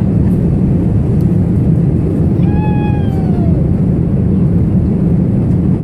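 A house cat meows once, a single falling call about halfway through, over a steady low rumble.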